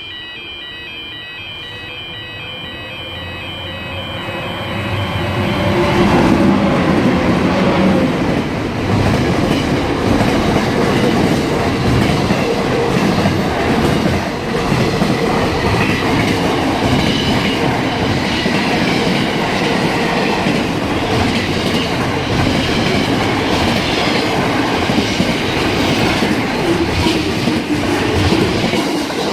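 A train approaching through a station, growing louder over the first six seconds, then passing close by with its wheels clattering steadily over the rail joints.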